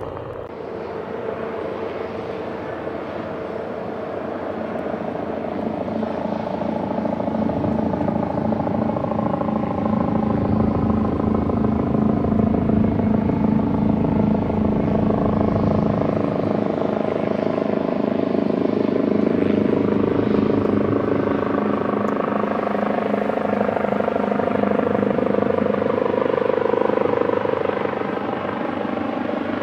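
Bell 430 helicopter's twin turbine engines and rotor running, growing louder over the first several seconds and easing off near the end, with its tones bending slightly in pitch.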